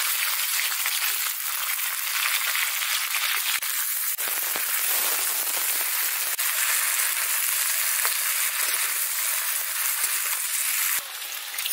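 Drumstick pods and potato slices sizzling steadily in hot mustard oil in an iron kadai, with a few faint clicks. The sizzle cuts off abruptly near the end.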